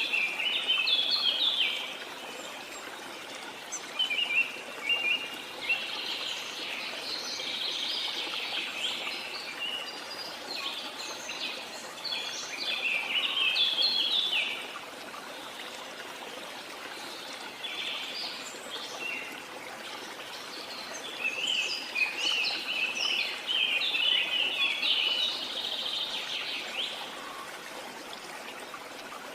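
Birds singing in several long bouts of quick, rapid chirps over the steady rush of running water from a waterfall.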